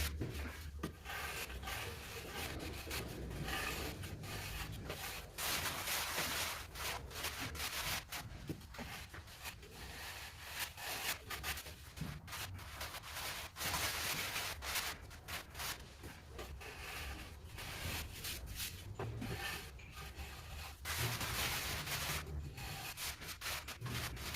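A trowel scraping and rubbing across a cement mortar floor base in repeated, irregular strokes while the bed is levelled and sloped for tiling.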